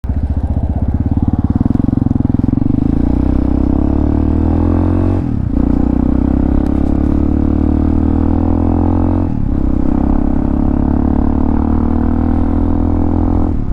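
Hawk 250 motorcycle's single-cylinder engine, fitted with a Motocults stage 4 kit, pulling under acceleration: the engine note climbs steadily in pitch, dropping briefly at each upshift about five and nine seconds in and again at the end.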